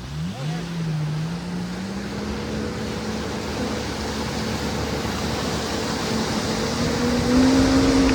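Jet ski engine accelerating over the rush of wind and water. Its drone climbs in pitch in the first couple of seconds, holds steady, then steps up again and gets louder near the end.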